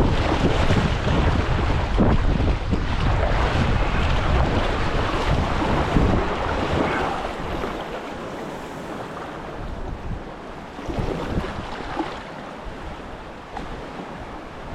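Rushing whitewater rapids, with wind buffeting the microphone for the first six seconds. After that it is quieter, with a few short sharp sounds about ten to twelve seconds in.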